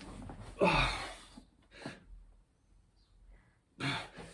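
A man breathing hard from exertion during a set of high-rep burpees. About a second in there is a loud exhale in which his voice falls in pitch, a quiet lull follows, and a sharp breath comes near the end.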